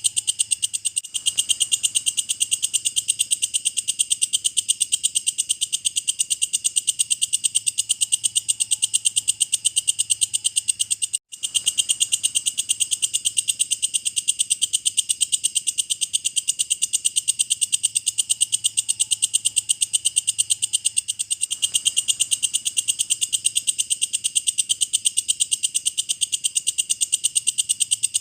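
Walang kecek, a singing bush-cricket, calling in a fast, even train of high-pitched chirping pulses. A split-second break about eleven seconds in.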